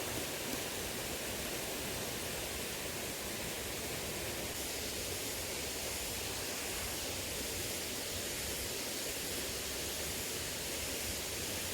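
Steady rushing of flowing water in a small river.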